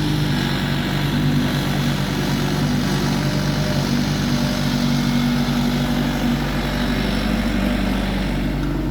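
Diesel engine of a working machine running steadily at a constant speed.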